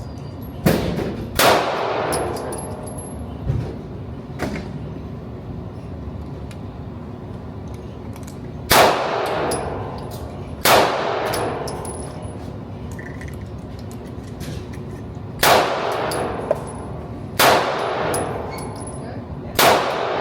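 Gunshots at a shooting range: about seven sharp reports, mostly in pairs about two seconds apart, each with an echoing tail.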